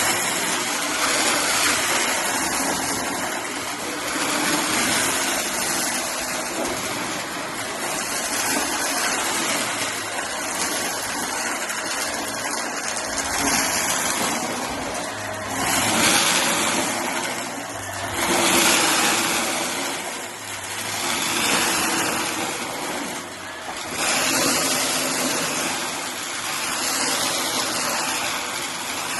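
Shark vacuum cleaner running while it sucks up bits of cardboard, the noise swelling and dipping every few seconds as the head is pushed back and forth.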